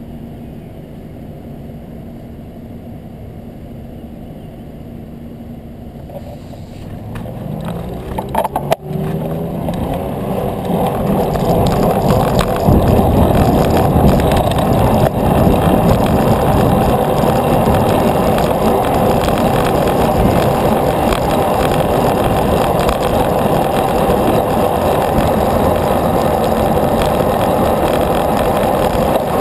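Wind and road noise from a moving bicycle. It builds up about seven seconds in and then stays loud and steady, with a few clicks as it rises.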